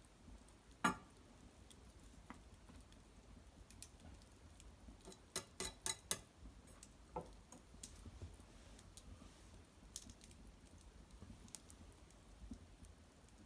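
Wood fire in an irori hearth crackling, with scattered sharp pops: a louder one about a second in and a quick cluster of several near the middle.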